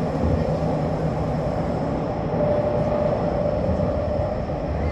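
Tokyo Metro Fukutoshin Line express train running steadily underground, heard from inside the front car: a continuous rumble of wheels on rail with a steady hum.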